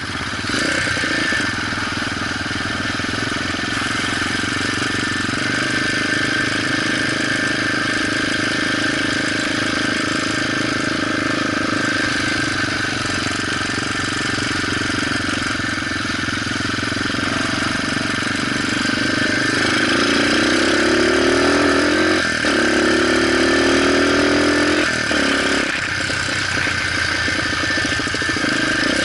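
Motorcycle engine running under way. In the last third its pitch climbs twice, each climb ending in a short break like a gear change.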